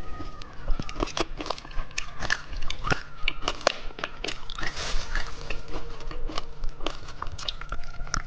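Hard candy from dice candy being bitten and crunched, with many sharp, irregular cracks.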